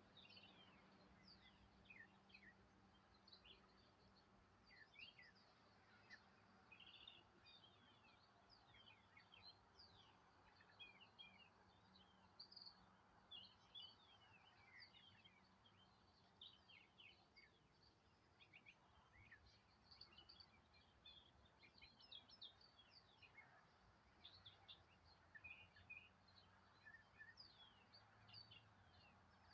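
Faint birdsong: many small birds chirping in short, high, falling notes that overlap continuously.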